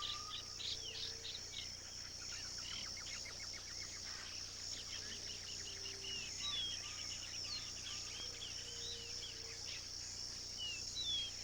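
Natural savanna ambience: a steady, high-pitched insect trill throughout, with many short bird chirps and whistles over it.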